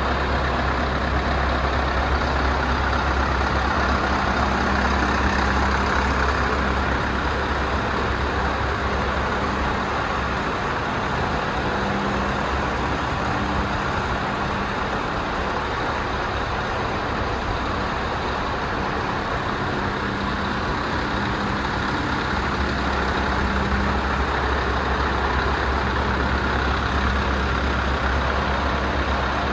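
Scania V8 diesel engine of an R500 tractor unit idling steadily, with a deep low hum that is weaker for a stretch in the middle and then comes back.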